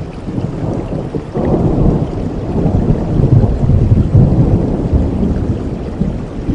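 Steady rain with a long, deep rumble of thunder that swells about a second and a half in and keeps rolling.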